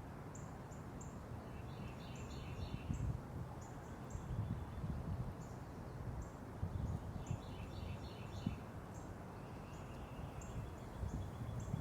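Small backyard birds calling: short, high chips repeated every second or so, with two brief bursts of lower chirping notes, about two seconds in and again about seven seconds in. Under them runs an uneven low rumble that swells and fades.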